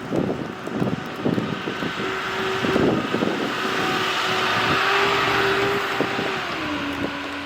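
A motor vehicle passing on a snowy street: tyre hiss swells and fades, and a steady engine hum drops in pitch near the end. Footsteps thud in the snow about twice a second for the first few seconds.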